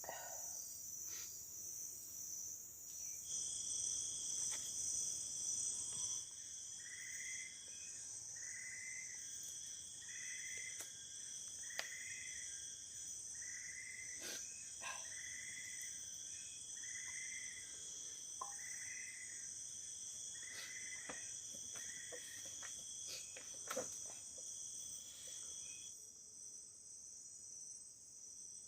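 Forest insect chorus with a steady high-pitched buzzing and trilling. A second, lower steady trill joins about three seconds in and drops out near the end. In the middle stretch a short call repeats about every second and a half, around ten times.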